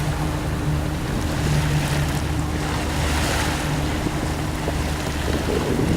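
A charter boat's engine running with a steady low hum, under sea water washing and wind buffeting the microphone.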